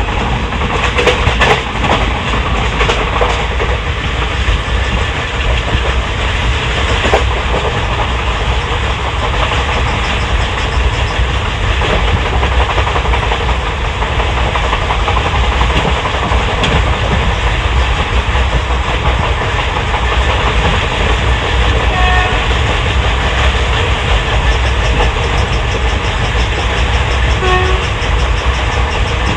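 Wheels of an ICF passenger coach running fast over the track, heard from inside the coach: a steady loud rumble and rattle, with a few sharp knocks over rail joints about a second in and again around seven seconds.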